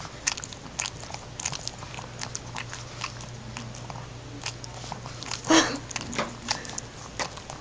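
Dog licking and smacking at sticky peanut butter: irregular wet mouth clicks, with a louder smack about five and a half seconds in.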